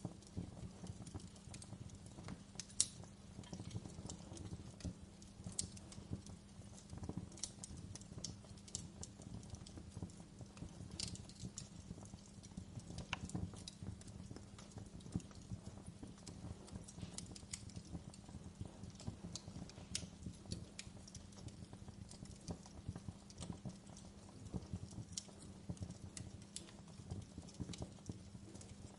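Campfire burning, its wood crackling with frequent irregular sharp pops over a low steady rumble. The loudest pop comes about three seconds in.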